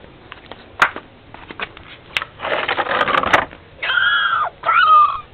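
Newborn puppy giving two short, high, wavering squeals near the end, after about a second of breathy sniffing noise and a couple of clicks.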